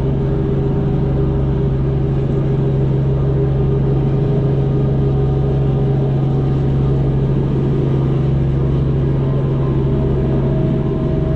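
An engine running steadily, a loud, even low drone with no change in speed.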